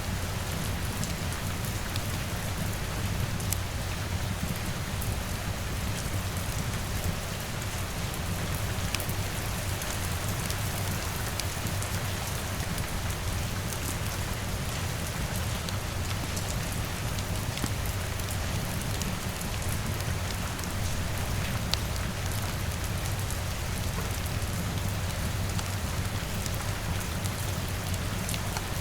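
Steady rain falling on a surface, a constant hiss with scattered sharp ticks, over a low steady rumble.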